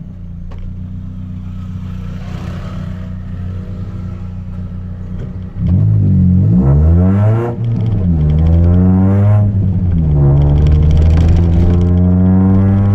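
Chevrolet Celta 1.0 four-cylinder engine with a 4-into-1 header and a straight two-inch exhaust with no mufflers. It idles steadily, then about five and a half seconds in it is revved hard three times in quick succession. Each rev rises in pitch and falls back, and the last is held up near the end.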